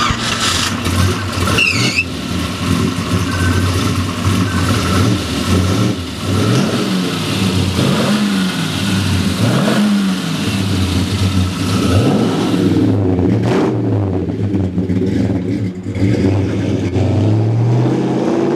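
1957 Chevy Bel Air's big-block Chevy V8 running, blipped up and back down about five times in quick succession, then settling to a steady run. Near the end the engine note climbs as the car pulls away.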